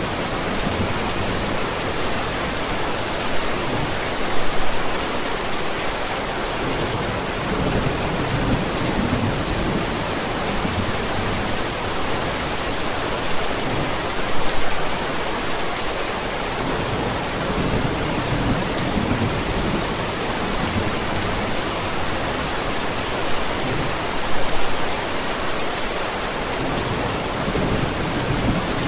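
Steady heavy rain in a thunderstorm, with low rolling thunder. There are brief louder moments about every ten seconds.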